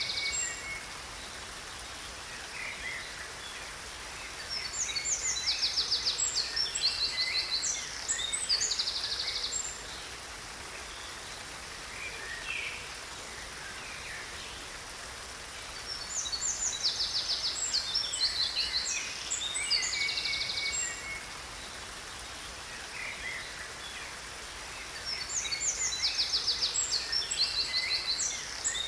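Songbirds singing in three bouts of quick chirps and fast trills, about ten seconds apart, over the steady noise of a waterfall.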